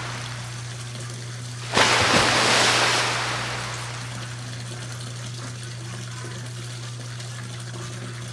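Water in a bathtub: a sudden rush of water about two seconds in that fades away over the next couple of seconds, over a steady low hum.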